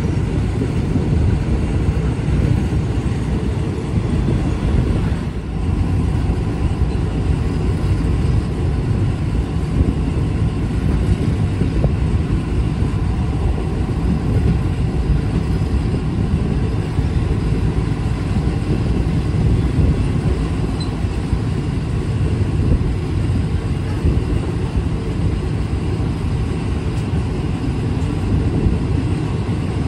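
Steady low rumble of a moving passenger train, heard from an open carriage doorway.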